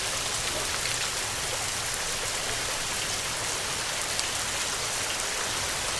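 Steady rain: an even hiss of falling rain with scattered faint drop ticks.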